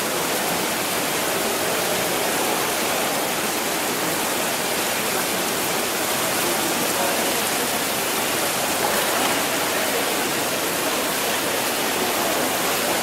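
Steady, even rushing noise with no change.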